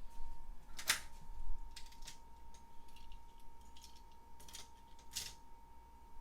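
Scattered light plastic clicks and taps as die-cast toy cars and the toy track's starting gate are handled, the sharpest about a second in, with a faint steady high hum underneath.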